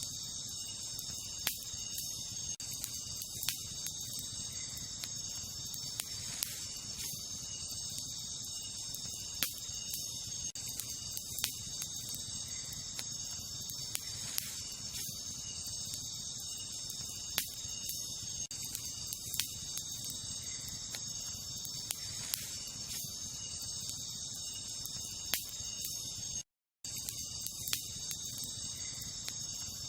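Wood campfire crackling, with sharp pops every second or two, over a steady high chorus of crickets. The sound cuts out completely for a moment about three-quarters of the way in.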